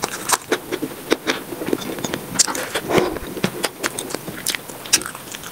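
Close-miked eating sounds sped up threefold: crunching bites of a raw green chili and mouthfuls of curry and rice being chewed, heard as quick, irregular crackling clicks and wet mouth smacks.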